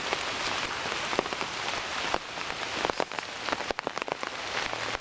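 Heavy rain falling in a downpour: a steady hiss of rain with many sharp, separate drop taps close by.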